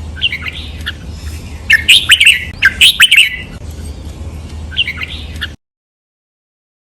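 Red-whiskered bulbul singing short, loud whistled phrases in quick groups, about four bouts. The sound cuts off suddenly about five and a half seconds in.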